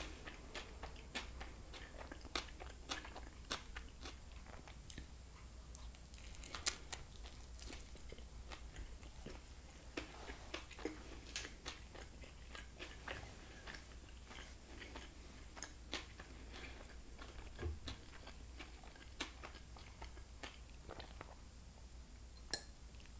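Close-miked chewing of a soft flour-tortilla fish taco with shredded cabbage: faint, wet mouth clicks and small crunches, scattered irregularly.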